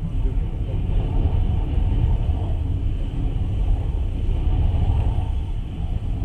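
Passenger train running at speed, a steady low rumble of wheels on rails and the moving carriage, heard from inside the carriage.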